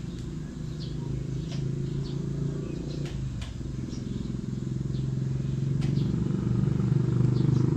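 Small toy quadcopter's motors and propellers spinning, a low fluttering buzz that grows steadily louder as it tries to lift off.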